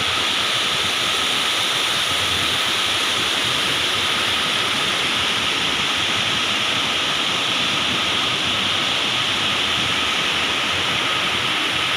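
A waterfall's water falling and splashing in a steady, even rush.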